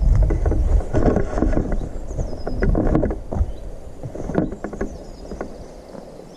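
Footsteps walking over the forest floor, an uneven run of crunching steps with low rumble from the microphone moving, easing off in the last couple of seconds. Birds chirp faintly in the background.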